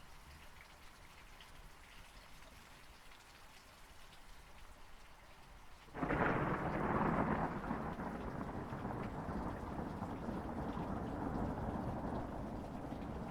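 Rain pattering steadily, then about six seconds in a thunderclap breaks in suddenly and rolls on as a long rumble under the rain.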